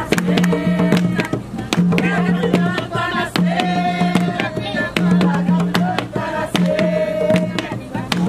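Jongo music: hand drums beating a steady, driving rhythm under voices singing.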